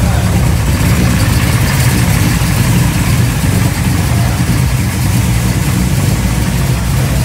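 Dodge Charger muscle car's engine idling loudly and steadily.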